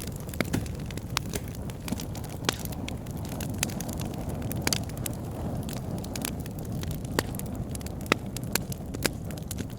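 Campfire burning, with a steady low rumble of the flames and irregular sharp pops and crackles of burning wood.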